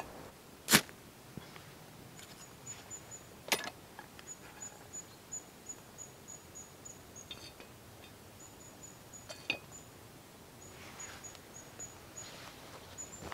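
A small bird calling in the forest: runs of a high, thin chirp repeated about four times a second. Three sharp clicks break in, the loudest about a second in, another at three and a half seconds and one near nine and a half seconds.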